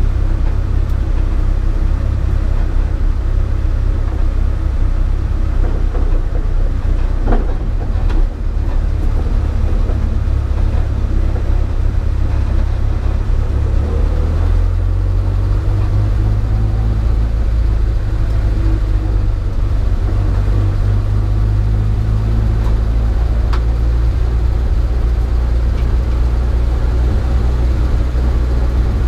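Datsun P610 rally car running on the move: engine and road noise as a loud, steady low rumble, with a brief drop in level about eight seconds in.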